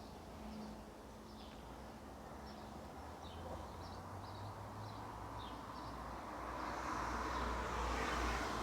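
Outdoor ambience: short high bird chirps scattered throughout over a low steady hum, with a rushing noise like passing traffic swelling over the last couple of seconds.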